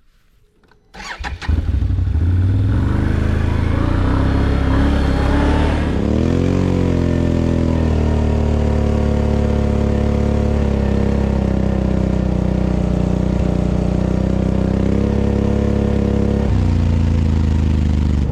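Off-road vehicle's engine cranking and starting about a second and a half in, then running steadily. Its pitch swings briefly about six seconds in before it settles into an even idle.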